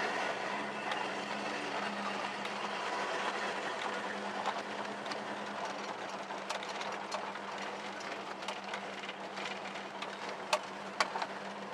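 An old Dodge being driven, heard from inside the cab: the engine's steady low hum under road noise, with scattered clicks and rattles, two sharper ones near the end.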